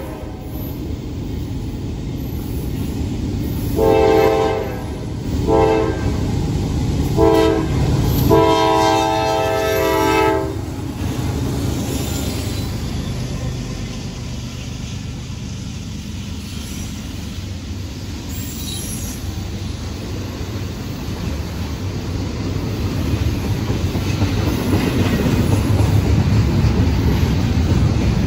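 Freight train's diesel locomotive horn blowing a series of blasts, the last one the longest, ending about ten seconds in. After it comes the steady rumble of the train rolling past, growing louder toward the end.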